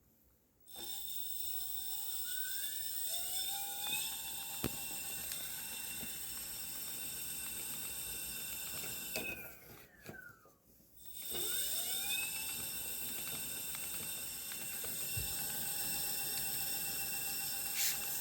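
Crystalyte electric hub motor on a 16-inch mini-bike running at speed with a high-pitched electric whine. It spins up twice: the whine rises in pitch as the motor accelerates, holds steady, falls away as it slows about ten seconds in, then rises again and holds.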